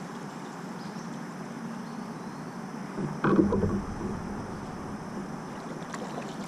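Steady outdoor hiss with a single dull, hollow knock on the kayak a little after three seconds in.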